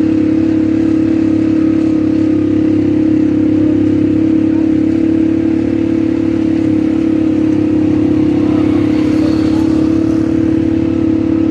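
ATV engine running at a steady pitch, holding an even speed.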